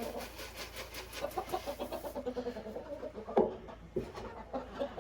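Chickens clucking softly while pecking at feed, with rapid tapping of beaks through the first couple of seconds and a sharper single call about three and a half seconds in.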